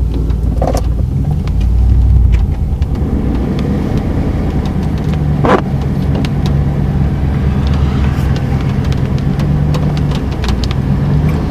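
A car engine idling, heard from inside the cabin as a steady low hum, with scattered sharp ticks of raindrops hitting the car; one tick about five and a half seconds in is louder than the rest.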